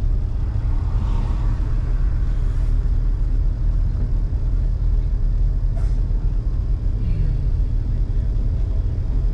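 A car's engine running steadily at low speed: a continuous low rumble.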